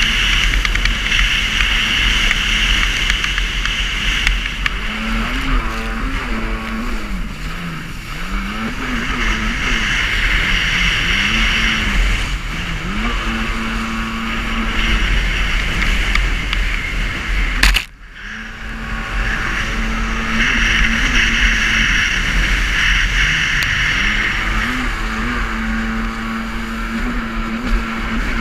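Jet ski engine running at speed, its pitch rising and falling as the throttle comes on and off, under heavy wind and water rush on the microphone. About two-thirds of the way through, the sound cuts off sharply and comes back.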